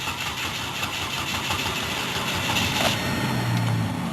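A 2009 Chevrolet HHR's four-cylinder engine cranks on the starter for about three seconds, then catches and settles into a steady idle. It is a cold start after the car has sat unused for a couple of weeks.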